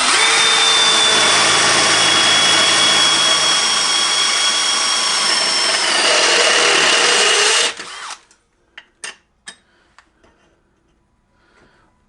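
Electric drill with a step drill bit boring into a steel seat bracket: a loud, steady high-pitched whine over grinding noise. It stops suddenly at about eight seconds, and a few light clicks and taps follow.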